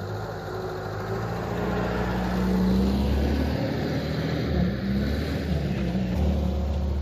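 UAZ off-roader's engine running, its pitch rising and falling with the throttle.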